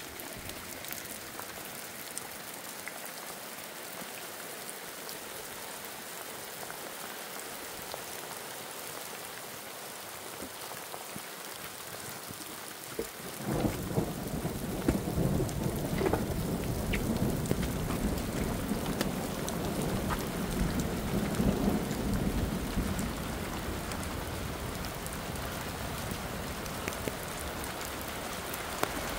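Steady rain falling. About halfway through, a low rumble of thunder sets in, swells for several seconds and then eases off.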